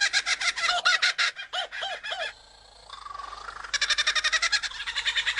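Superb lyrebird singing its mimicry song: fast runs of short repeated chattering notes, like a kookaburra's laugh, that break off briefly about halfway with a faint whistle and then start again.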